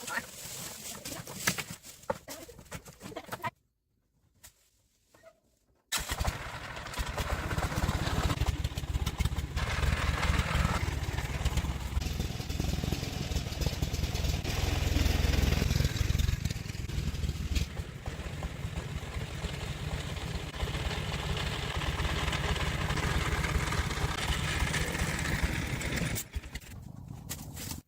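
A vehicle engine running close, a steady heavy low rumble that starts suddenly after a short silence and drops away abruptly near the end.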